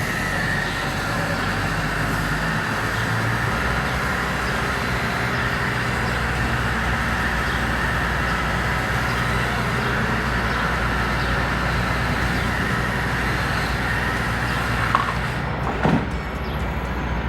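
A heavy engine-driven machine running steadily with a deep hum, with a short knock about fifteen seconds in and a brief change in the sound just after.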